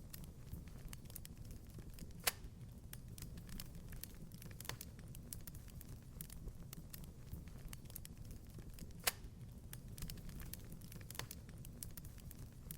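Wood fire in a fireplace crackling softly over a low steady rumble, with irregular small snaps and two louder pops, one about two seconds in and one about nine seconds in.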